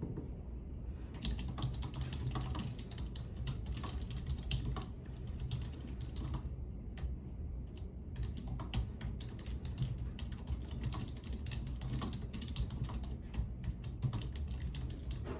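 Typing on a computer keyboard: rapid, irregular key clicks over a steady low hum.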